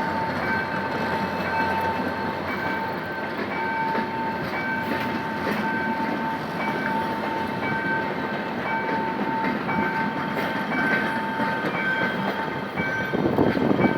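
Passenger train hauled by a GM GT22CW-2 diesel locomotive rolling past, with wheel clatter. A steady pulsing electronic beeping sounds all the while, and the rolling noise swells near the end.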